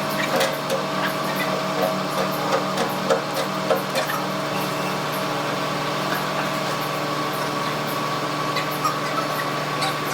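A machine hums steadily throughout, under a run of short knocks and clicks over the first four seconds.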